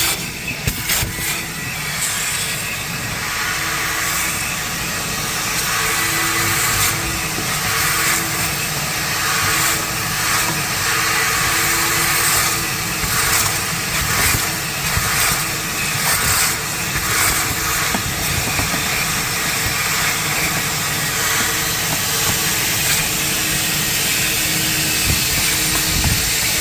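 Coin-operated car wash vacuum running, its hose sucking air with a steady rushing noise and a low hum, surging slightly now and then.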